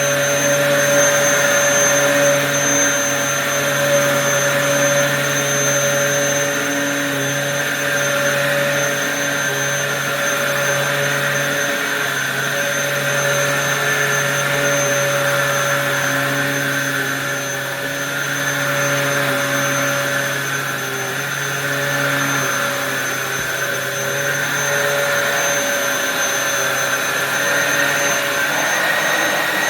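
Dyson DC07 upright vacuum cleaner, rated at 1,400 watts, running continuously while hoovering the floor: a steady motor whine with a thin high tone on top.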